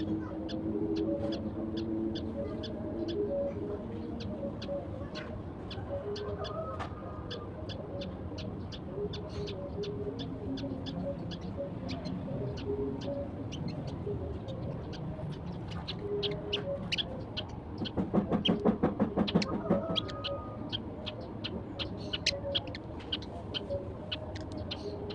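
Eurasian tree sparrows chirping, a steady stream of short, sharp high chirps, with lower repeated calls of other birds behind them. A louder spell of rapid pulses comes about 18 seconds in and lasts a couple of seconds.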